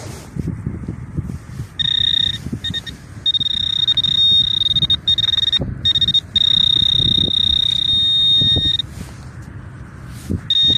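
Metal-detecting pinpointer sounding a steady high-pitched tone that switches on and off in stretches of up to a few seconds as it is held over the target in the hole. Wind rumbles on the microphone underneath.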